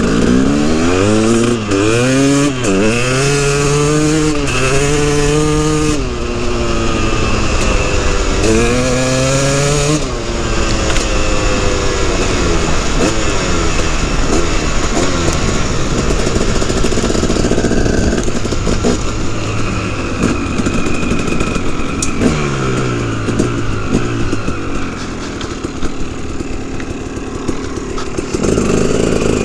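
KTM 300 EXC two-stroke single-cylinder dirt bike engine revving hard under acceleration. Its pitch climbs and drops again and again as it shifts up through the gears, then it falls away as the bike eases off about 22 seconds in.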